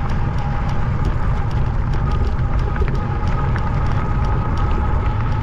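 Electric bike being ridden: steady wind rumble on the microphone with road and tyre noise, under a steady whine that edges up slightly in pitch after the middle.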